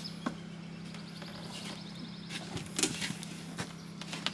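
An A-frame camper's hinged side wall being lowered, giving a click and then a run of knocks and rattles a little past halfway, over a steady low hum.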